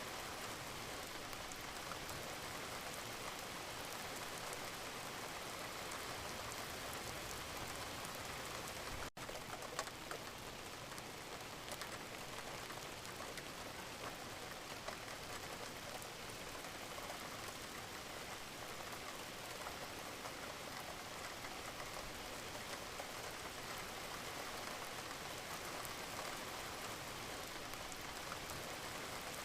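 Wood fire crackling in a fireplace: a steady hiss sprinkled with many small pops and snaps, broken by a momentary dropout about nine seconds in.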